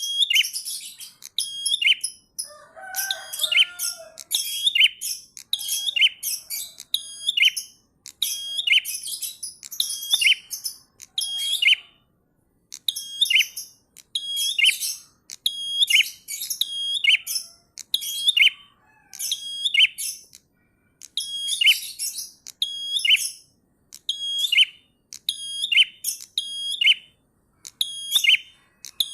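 A prinia singing in full song, repeating a short, sharp high-pitched phrase over and over at about one a second, with brief pauses about twelve and twenty seconds in.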